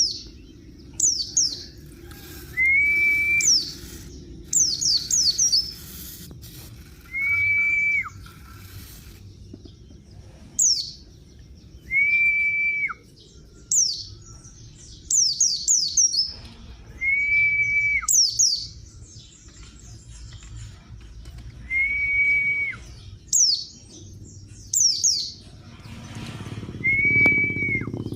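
White-eye (pleci) bird calls repeating in a regular pattern. A level whistled note, held about a second and dropping sharply at its end, comes every four to five seconds, alternating with quick clusters of two to four high, falling chirps.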